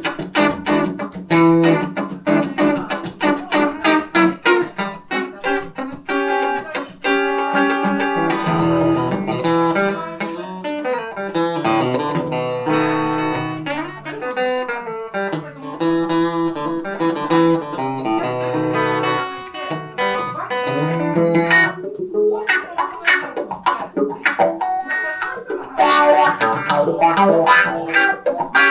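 Electric guitar, a Van Zandt Telecaster through a Roland JC-120 amp, playing an instrumental blues passage. Quick picked notes give way to longer held notes and chords through the middle, then quick picking returns after a brief dip.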